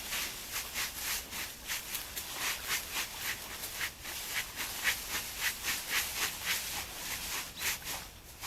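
Wild boar rooting and scuffling through the ground litter: quick, repeated rustling scrapes, about three to four a second, with a louder pair near the end.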